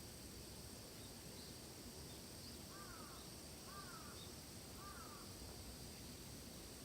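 Faint forest ambience: a steady high-pitched insect drone, with a bird giving three short call notes about a second apart around the middle.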